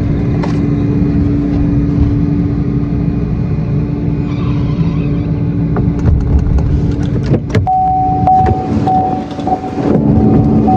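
A truck engine runs steadily with a low rumble and a steady hum. About seven and a half seconds in comes a sharp click, then a repeating electronic chime of the kind a vehicle sounds when a door is open.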